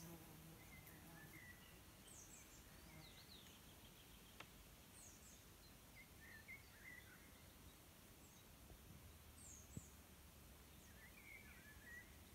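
Near silence with a faint hiss, broken by small songbirds chirping and whistling in short calls every second or two. A faint low buzz fades out in the first second or two.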